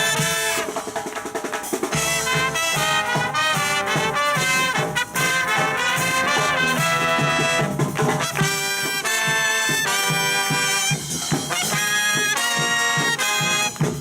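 A live brass band playing a lively swing-style tune, with trumpets and trombones carrying the melody over a steady beat.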